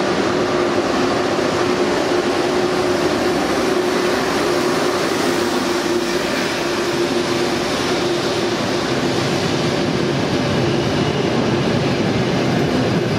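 Trenitalia Frecciarossa high-speed train rolling alongside a station platform: a steady rushing rumble of the carriages passing close by, with a steady hum running through it that fades near the end.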